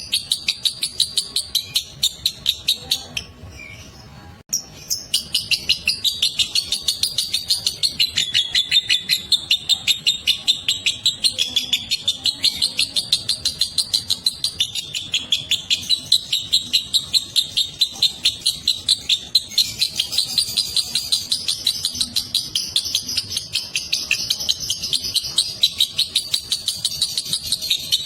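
Lovebird giving a long, rapid chattering 'ngekek' call of sharp, high notes at about five a second, breaking off briefly about three seconds in and then resuming.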